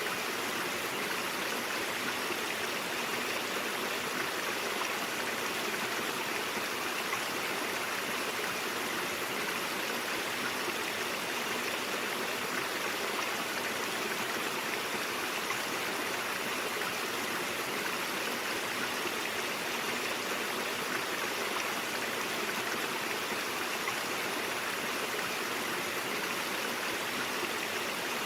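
A brook's running water, flowing in a steady, even rush with no breaks or changes.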